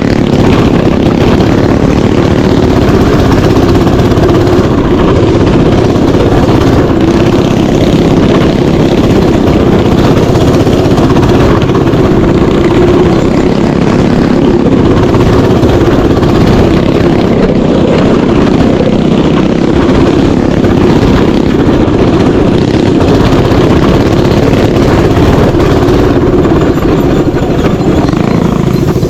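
Mini bike engine running loud and close, holding a fairly steady speed without big revs.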